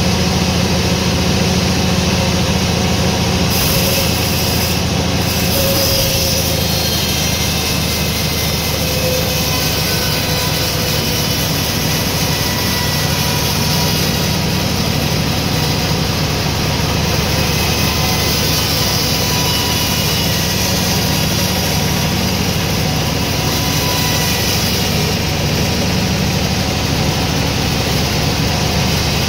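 Sawmill machinery running steadily, a loud low engine-like drone with no sawing strokes or impacts standing out.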